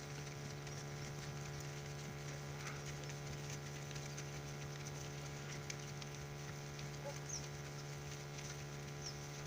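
A steady low hum with many overtones, and a few faint short high chirps over it.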